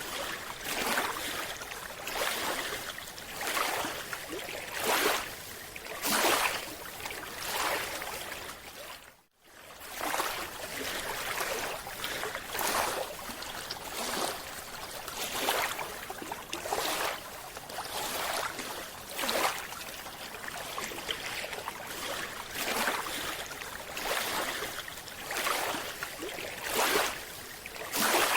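Water sloshing in regular surges about every second and a half, with a brief dropout about nine seconds in.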